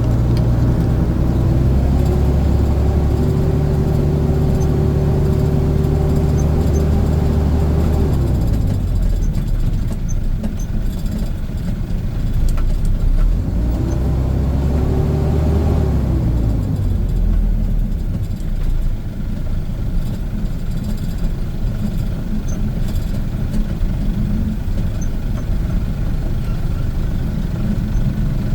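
Dump truck's diesel engine pulling under throttle, its pitch climbing and holding, then dropping away about eight seconds in. It climbs again briefly around fourteen seconds in, then settles to a low, steady running sound.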